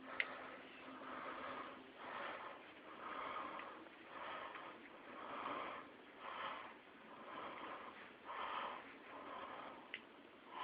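Breathing or sniffing, soft noisy breaths about once a second, with a faint click near the start and another near the end.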